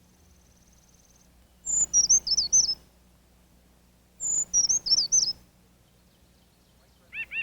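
Brown creeper singing: two high, thin song phrases about two and a half seconds apart, each a sharp high note followed by a quick jumble of falling and rising notes. Near the end, a lower bird call starts a rapid run of repeated chirps.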